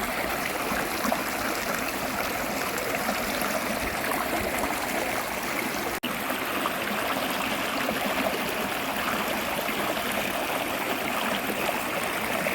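Steady rush of flowing water, dropping out for an instant about six seconds in.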